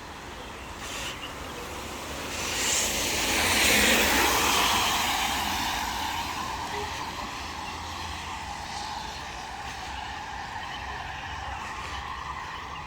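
A car passing on a wet road, its tyres hissing on the water: the hiss swells to a peak a few seconds in and then fades away slowly.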